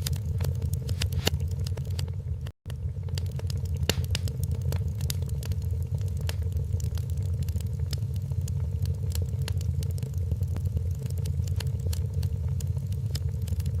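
Wood fire crackling, with frequent irregular sharp pops and snaps over a steady low rumble. The sound cuts out for an instant about two and a half seconds in.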